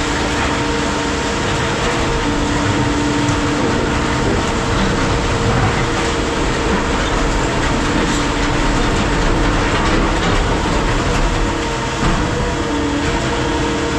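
Heavy scrap-processing machinery running steadily: a constant loud mechanical drone with a steady hum.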